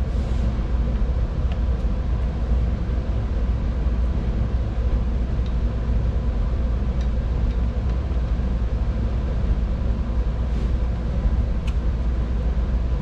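Steady low rumble, with a few faint light clicks as a lawn mower blade is fitted and clamped into a sharpening jig.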